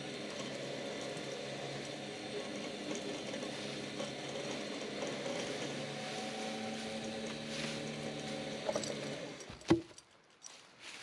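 A motor running steadily, which cuts off about nine seconds in, followed moments later by one sharp knock.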